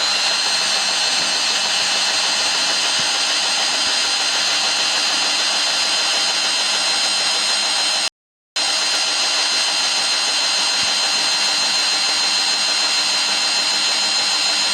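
Samsung Ecobubble front-loading washing machine on its spin cycle: the drum spinning at speed, a steady rushing noise under a steady high whine. The sound drops out completely for about half a second just past the middle.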